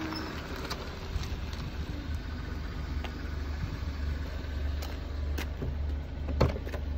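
Jeep Patriot SUV idling close by, a steady low engine hum. A few sharp clicks sound in the second half, the loudest near the end.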